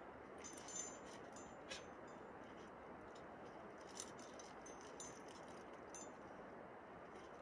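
Faint, scattered metallic clinks of a trad climber's gear, carabiners and cams jangling on the rack, over a steady background hiss.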